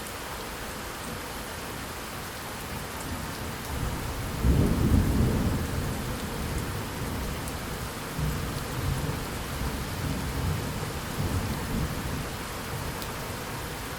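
Steady rain with a rolling thunder rumble that swells about four seconds in, is loudest soon after, then rolls on in lower waves and dies away near the end.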